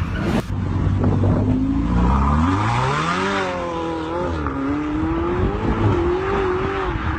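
Car engine accelerating: its pitch climbs steadily for about two seconds, then wavers and holds as the car keeps driving.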